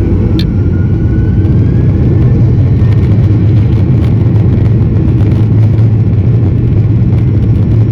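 Inside the cabin, a Boeing 737-800's CFM56-7B jet engines run at high power for the takeoff roll: a loud steady rumble, with a thin whine rising over the first couple of seconds as the engines spool up.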